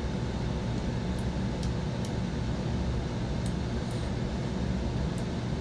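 Steady low background rumble and hum, with a few faint, short high ticks.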